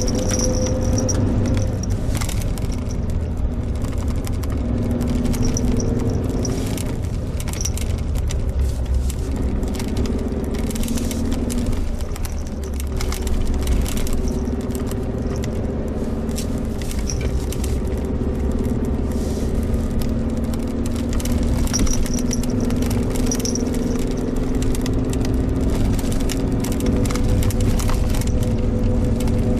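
Suzuki Jimny Sierra on the move: its engine running under a steady low rumble of road noise, the engine note shifting up and down, with frequent small rattles and knocks.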